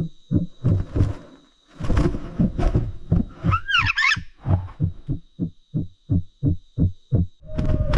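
A steady run of low thuds, about three to four a second, like a pounding heartbeat, with a short warbling bird call about three and a half seconds in.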